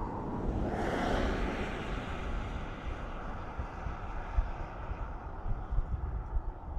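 The Airbus A400M's four turboprop engines heard as the aircraft climbs away: a broad, noisy engine sound that swells about a second in and then slowly fades. Wind gusts rumble on the microphone.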